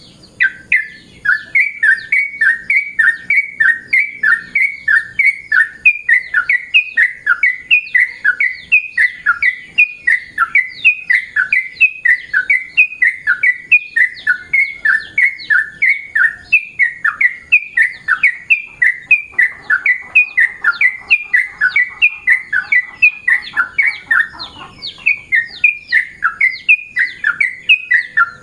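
Yellow-vented bulbul (trucukan) calling close by: a long, fast run of short, clear downward-slurred notes, about three a second, with a brief pause a little over three-quarters of the way through.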